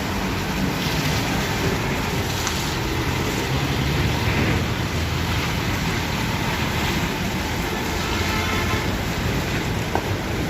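Non-air-conditioned bus on the move: steady engine and road rumble.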